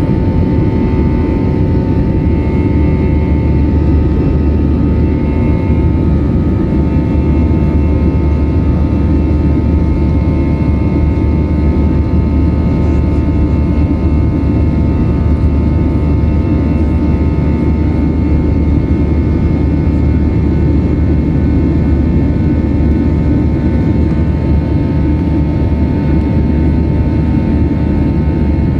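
Airbus A320-214 jet engines, CFM56-5B turbofans, running at high thrust during takeoff: a loud, steady rumble with a faint steady whine above it that holds level throughout.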